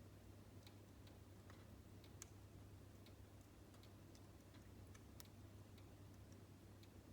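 Wood fire crackling faintly in a fireplace, with small irregular pops; the sharpest come about two seconds in and about five seconds in. A steady low hum sits underneath.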